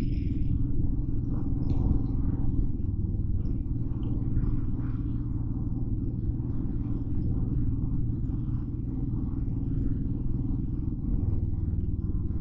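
Motorcycle engine running steadily under way, over a constant low rumble of wind and road noise.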